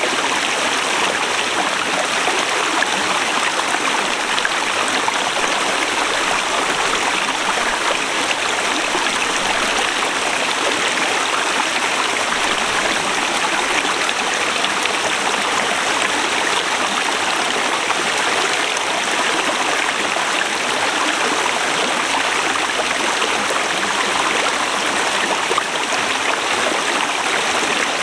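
Forest river rushing over rocks, a steady, unbroken water noise.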